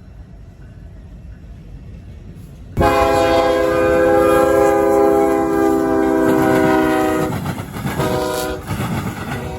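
Amtrak Auto Train locomotive's air horn: after a low train rumble, one long blast starts suddenly about three seconds in, followed by a short blast and a third beginning near the end, over the rumble and wheel clatter of the train.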